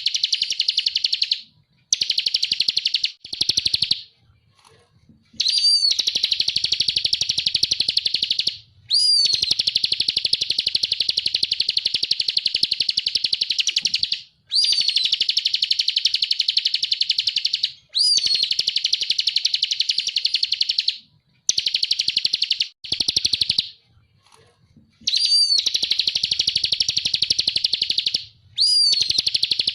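Bar-winged prinia (ciblek kristal) singing long phrases of very rapid, high, repeated notes, each lasting one to five seconds with short pauses between. Several phrases open with a quick rising-then-falling note.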